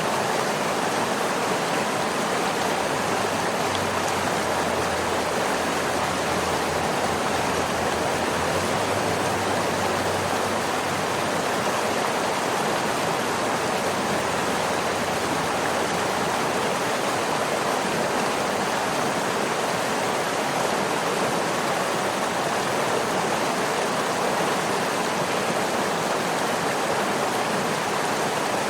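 Waterfall: a steady, unbroken rush of falling water, an even hiss with no changes or separate splashes.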